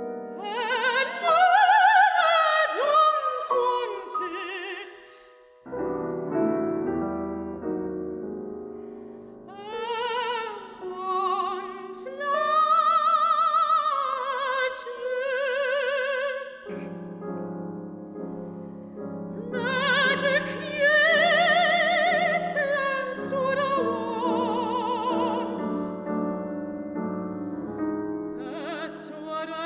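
A soprano singing an operatic aria with a wide vibrato, accompanied by piano; sung phrases alternate with sustained piano chords, and deep new chords come in about six and seventeen seconds in.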